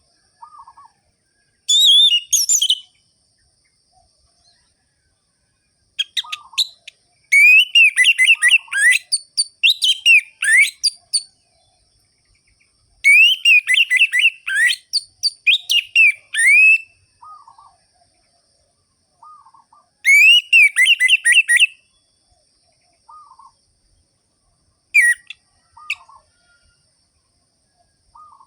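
Orange-headed thrush (anis merah) singing in separate bursts of fast, sharp, rolling phrases lasting one to four seconds, with silent pauses between them and a few short soft low notes in the gaps.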